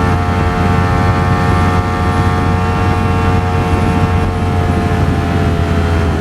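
Ducati Streetfighter V4 S's V4 engine running at a steady cruise, its pitch easing slightly downward, over a low rumble of wind and road noise.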